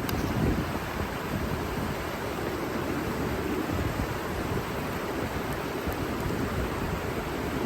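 Steady rushing of flowing river water, an even noise heaviest in the low range.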